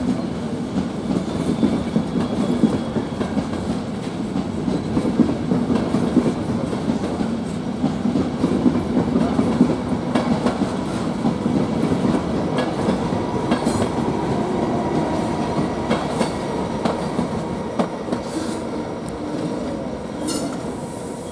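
A Trenord suburban train hauled by an FS E.464 electric locomotive pulling out, its wheels clacking over the rail joints with a faint squeal. The running noise eases off slightly near the end.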